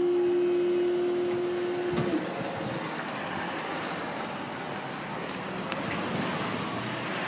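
Level crossing warning alarm sounding one steady tone as the barriers rise, cutting off with a click about two seconds in; a steady rushing noise follows.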